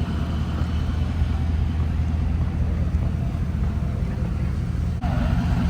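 Car engine idling with a steady low rumble, with an abrupt change in the sound about five seconds in.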